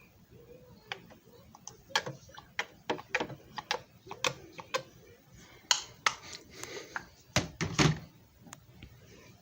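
Irregular sharp clicks and knocks of hard plastic parts being handled on a disc repair machine, with a couple of heavier thunks between seven and eight seconds in.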